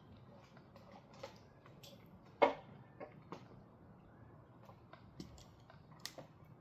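Scattered light clicks and knocks at irregular intervals, with one louder sharp knock about two and a half seconds in.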